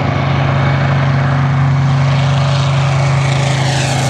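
B-25 Mitchell bomber's twin Wright R-2600 radial engines droning as the plane approaches on a low pass, loud and steady in pitch, growing slightly louder.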